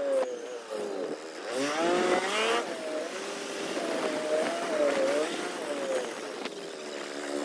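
KRV180 belt-drive scooter's single-cylinder engine running under way on a test ride. Its pitch climbs sharply about two seconds in, then rises and falls as the throttle is worked.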